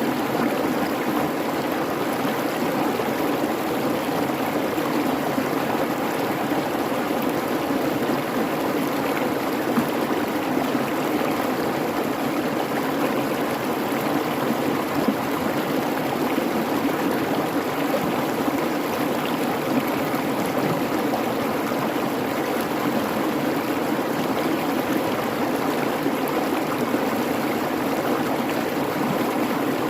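Creek babbling steadily over rocks: an even, continuous rush of running water.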